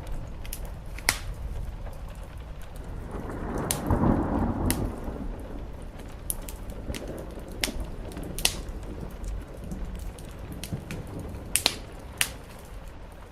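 Wood fire crackling with a dozen or so sharp, scattered pops over steady rain. A brief rumble swells and fades about four seconds in.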